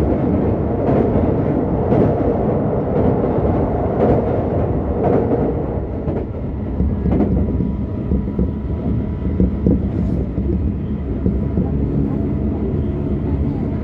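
Tokyo Metro 16000 series electric train running at a steady speed: wheels rumbling on the rails, with a faint steady whine from its Toshiba IGBT-VVVF inverter and permanent-magnet motors and scattered clicks as the wheels pass rail joints.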